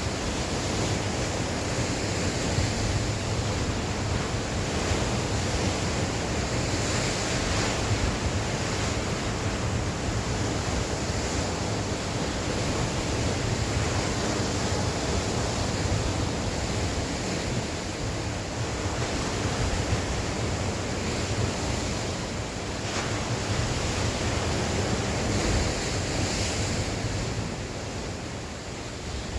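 Sea waves breaking and washing on the shore, a continuous surging wash that swells now and then, with wind rumbling on the microphone.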